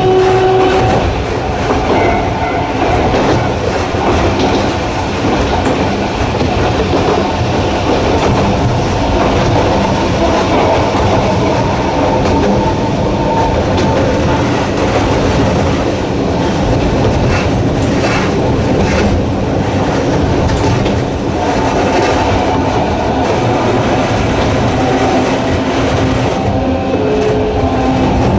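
Narrow-gauge electric train running, with the whine of its nose-suspended traction motors shifting in pitch now and then over steady wheel-on-rail noise and the clack of rail joints.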